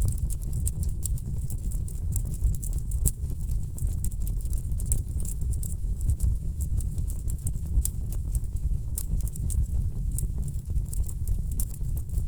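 Wood fire burning in a fireplace: frequent sharp crackles and pops from the burning logs over a steady low rumble of the flames.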